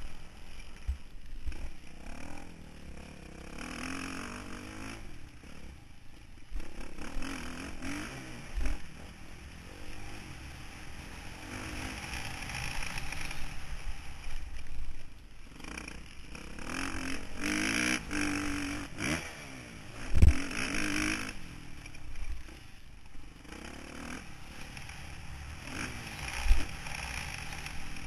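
Motocross bike engine heard from an onboard camera, revving up and dropping back again and again as it is ridden round the track, with wind and rattle on the microphone. Two heavy thumps stand out, the loudest about twenty seconds in and another near the end.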